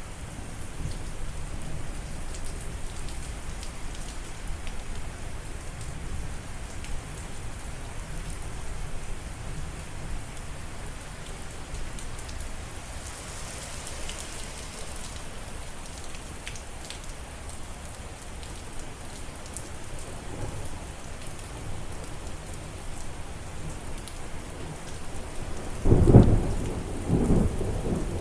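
Steady rain falling, with a loud clap of thunder near the end and a second, weaker one right after.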